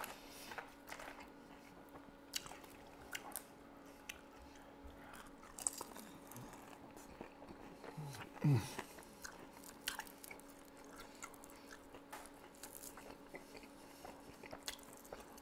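Close-miked eating of fried chicken wings: faint biting, chewing and wet mouth clicks with small crunches, and a brief falling hum of the voice about eight seconds in. A faint steady hum runs underneath.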